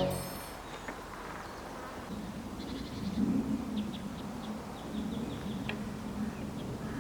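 Outdoor ambience with a bird chirping in short, high, repeated notes and a low, wavering hum that rises about two seconds in and runs on.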